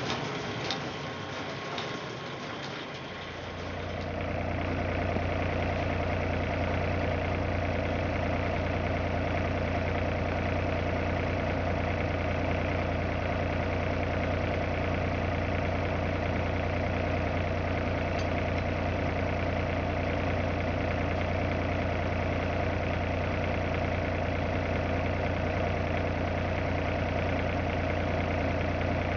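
Engine running steadily at an even speed, coming up in level about three to four seconds in after a few scattered clicks.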